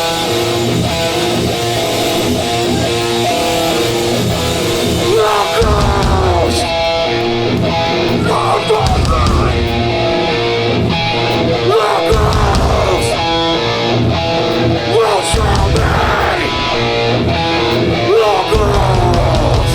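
Live hardcore band playing a guitar riff at loud volume, with heavy bass notes coming in and out in blocks from about six seconds in and several sliding notes, building into the next song.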